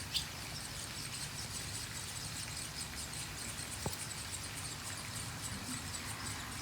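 Insects chirping steadily in a fast, even, high-pitched pulse, with a faint click about four seconds in.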